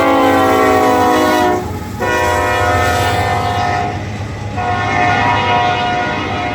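Nathan K5LLA five-chime air horn on a GE AC44C6M diesel locomotive, sounding long blasts: one ends about a second and a half in, and two more follow with short gaps. Under the horn is the steady low rumble of the passing locomotive.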